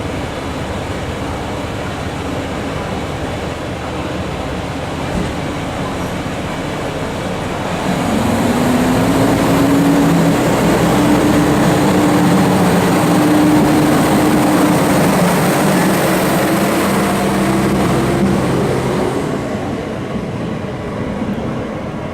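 Kyoto Tango Railway KTR700 diesel railcar pulling away: a steady engine hum, then about eight seconds in the engine revs up with a rising tone and runs loud for about ten seconds before fading as the railcar leaves.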